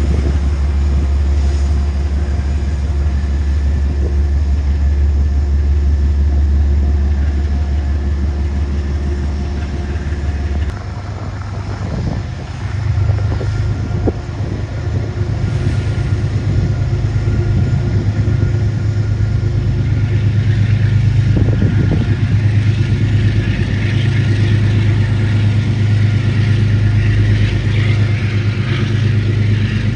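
Diesel train engine running loud and steady, its low drone stepping up abruptly to a higher pitch about eleven seconds in as the throttle is opened. Hissing rail and wheel noise builds in the second half.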